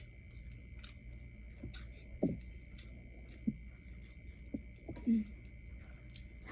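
A person chewing pho close to the microphone: wet mouth clicks and smacks, with a few short low hums in between. A faint steady high tone runs underneath.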